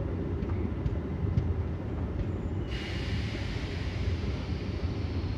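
MEMU electric train running along the track, heard from inside the coach as a steady low rumble. About halfway through a sudden hiss sets in and carries on over the rumble.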